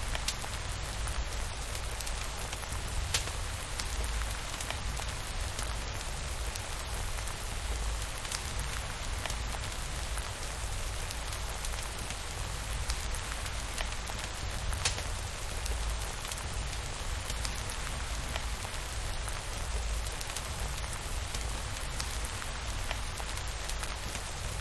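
Steady rainfall, an even hiss with a low rumble underneath, with a few scattered sharp crackles from a wood fire.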